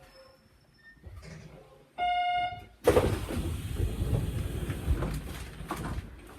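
A train's electric signal bell sounding as one continuous, steady ring lasting under a second. About three seconds in, a loud rumbling noise starts suddenly and continues.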